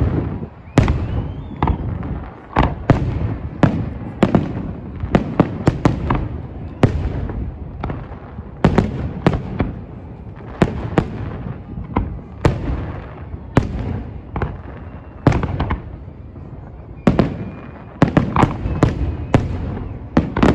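Aerial firework shells bursting in an irregular rapid series of sharp bangs, each followed by a low rolling echo.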